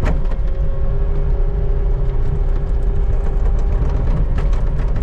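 Skid steer engine running steadily under load, with a constant whine over it. There is a sharp knock right at the start and a few more about four seconds in.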